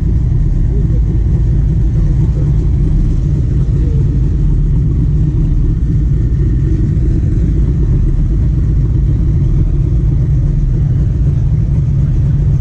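Steady low rumble of car traffic, even in level, with no distinct revs or horns standing out.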